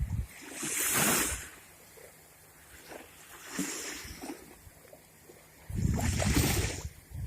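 Sea surf washing in waves, swelling about a second in, again more softly near four seconds, and loudest near the end, with wind rumbling on the microphone.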